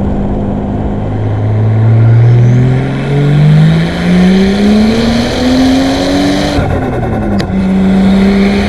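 Nissan Skyline R34's single-turbo RB25DET straight-six running steadily, then accelerating hard with the engine note climbing for about four seconds. About six and a half seconds in the throttle closes and the revs fall, with a brief sharp chirp as they drop, before the engine settles back to a steady note.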